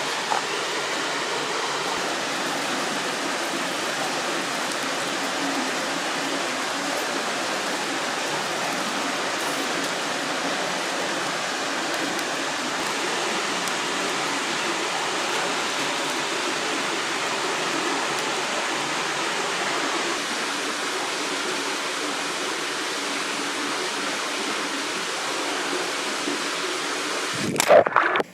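A river rushing and splashing over rocks in a steady, even flow. A short louder noise comes near the end, and then the sound cuts off suddenly.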